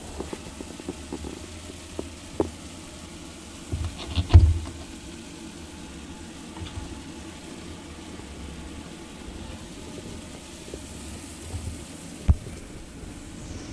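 A few knocks and bumps over steady background noise, a cluster of them about four seconds in and a single sharp one near the end.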